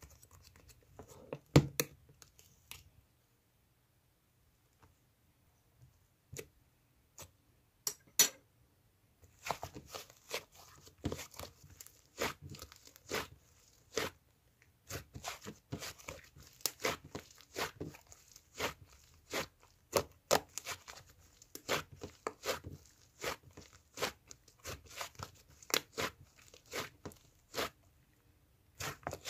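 Short sharp crackles and crinkles of something being handled, crumpled or torn. A few scattered ones come first, then from about ten seconds in they come thickly, about two a second.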